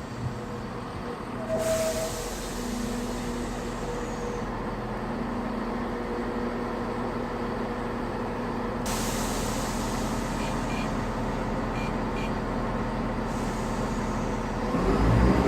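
Class 170 Turbostar diesel multiple unit standing at the platform with its diesel engines idling steadily, with a few short beeps and some air hiss. Near the end its engines rev up loudly as it prepares to pull away.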